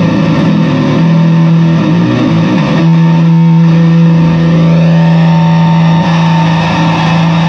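Fender Squier Bass VI played through a fuzz pedal: a few notes in the first seconds, then one thick, fuzzed note held and sustained from about three seconds in.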